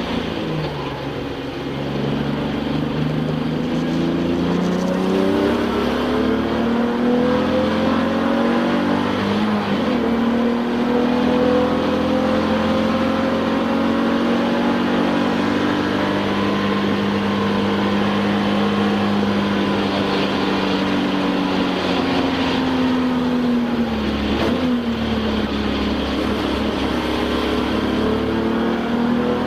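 Touring-car race car engine heard from inside the cockpit, pulling hard with the revs climbing slowly on long straights. The pitch drops sharply near the start, about ten seconds in and again about 24 seconds in, as the car lifts and brakes for corners.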